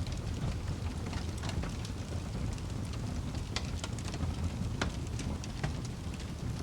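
Wood fire burning in a fireplace: a steady low rumble of the flames with irregular sharp crackles and pops from the burning logs, a few louder ones near the middle.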